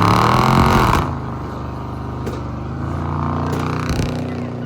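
A car engine revving: the pitch climbs for about a second and then drops off sharply, and the engine keeps running with a steadier tone that rises a little again near the end. A sharp crack comes at the very end.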